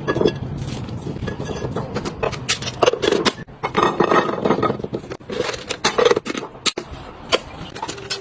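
Food packaging and plastic storage containers being handled while a fridge is stocked: a quick run of clicks and knocks with rustling scrapes between them.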